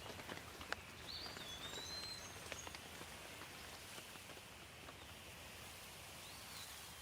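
Light rain falling steadily, with individual drops tapping close by. A bird gives short whistled calls about a second in and again near the end.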